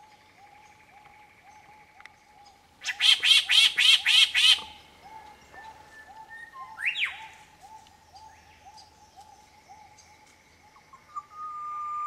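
Birds calling: a soft, steady run of repeated short notes about two or three a second, broken a few seconds in by a loud rapid series of about seven ringing notes. Near the end a long, steady whistle begins, the opening note of an eastern whipbird's whip-crack call.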